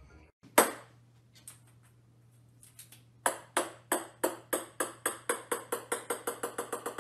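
A sharp tap about half a second in. Then, from about three seconds in, a small plastic ping-pong ball bounces on a hard wooden floor, its bounces coming faster and fainter as it settles.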